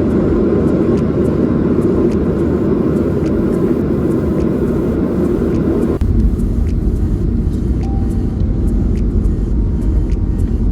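Steady rumble of a moving vehicle. About six seconds in it changes abruptly to a deeper rumble.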